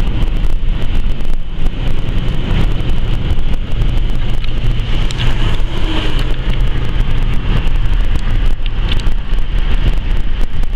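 Steady road and wind noise from a fast-moving car, with wind buffeting the microphone.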